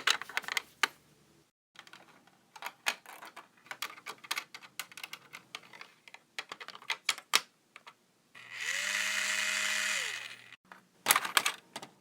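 Building sound effects: quick runs of clicking and tapping, like bricks and tools being worked. About eight seconds in, a small motor whirs for about two seconds, rising in pitch as it spins up and falling as it winds down, like a power drill. A few more clicks follow near the end.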